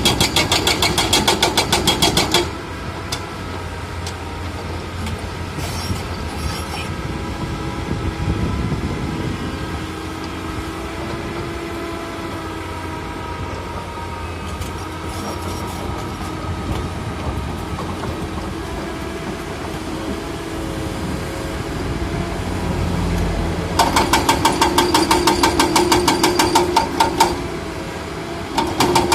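Excavator diesel engine running, with a pitched whine that rises and falls as the machine works. Loud, rapid knocking at several strokes a second fills the first two seconds and comes back for a few seconds near the end.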